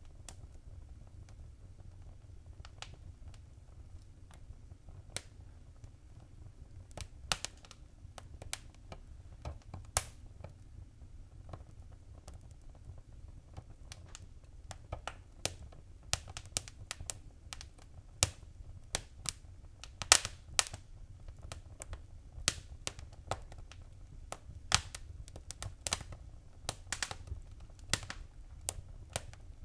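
Wood fire crackling in a fireplace: irregular sharp pops and snaps over a low steady rumble, the pops coming more often in the second half.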